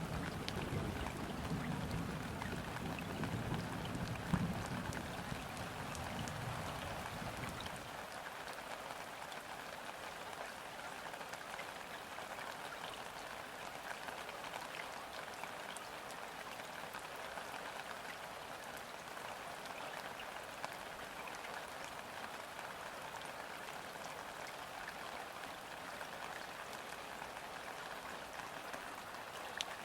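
Steady rain falling on river water, an even hiss with scattered drop ticks. A low rumble sits under it for the first eight seconds and then stops abruptly.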